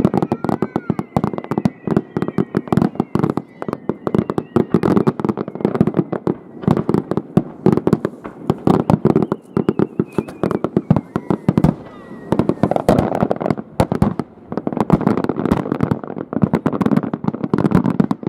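Fireworks display: a dense, rapid run of bangs and crackles from bursting aerial shells. Whistling tones glide down in pitch near the start and again about ten seconds in.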